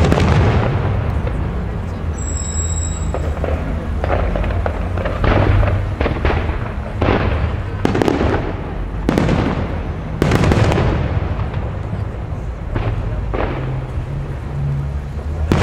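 Aerial firework shells bursting overhead: about a dozen loud bangs at irregular spacing, each with a fading echo.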